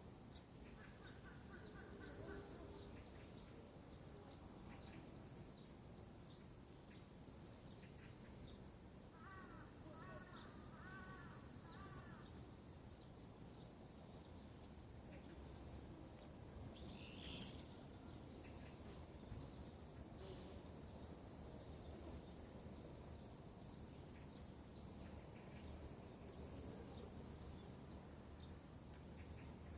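Faint wild birds calling over a steady low background hum: a short run of notes about a second in, a longer patterned series of calls about ten seconds in, and a brief higher call later.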